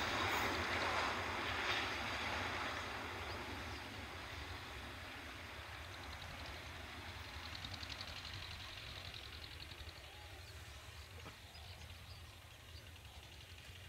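Passenger train running away into the distance, its wheel and carriage rumble fading steadily until it is faint.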